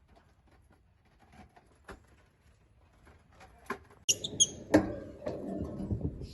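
Lovebirds giving short, high-pitched squeaky chirps from about four seconds in, over rustling. Before the chirps there are only scattered faint clicks.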